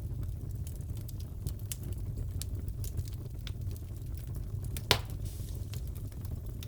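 Wood fire crackling in a fireplace: a steady low rumble with scattered sharp crackles, and one loud pop about five seconds in.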